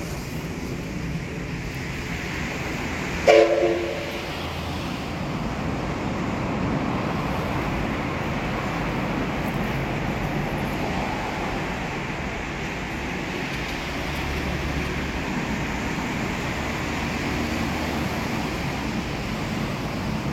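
Electric commuter train running with a steady rumble and hiss, with one short horn blast about three seconds in.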